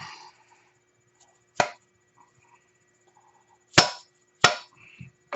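Three sharp metal knocks: one about a second and a half in, then two more in quick succession near the end. They fit hammer taps seating the A-arm pivot pins into the new bushings.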